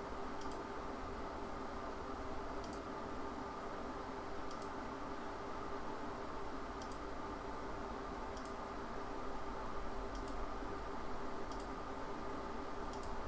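Computer mouse clicking: about eight single faint clicks spaced one to two seconds apart, over a steady low hum.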